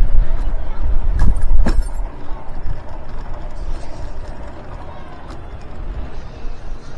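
Strong wind buffeting the microphone in heavy gusts for the first two seconds, with a few sharp clicks, then easing to a quieter, steadier rush of wind.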